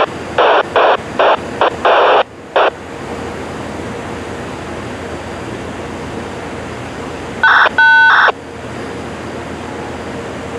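Railroad radio over a scanner: six short bursts of static in quick succession as a radio is keyed, then, about 7.5 s in, a second of static carrying a steady two-tone beep.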